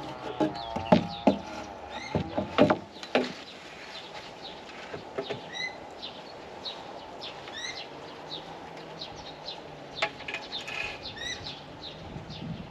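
A run of sharp knocks in the first three seconds and one more about ten seconds in, from work on the wooden shed frame, with small birds chirping throughout.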